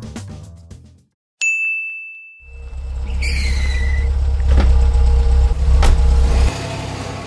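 Cartoon taxi sound effects. A high ding comes about a second and a half in. Then a car engine rumbles in as the taxi drives up, with a short squeal falling in pitch and two clicks, and the engine cuts off about six and a half seconds in.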